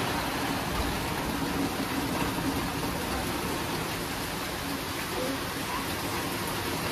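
Steady heavy rain falling, an even hiss with no pauses or changes.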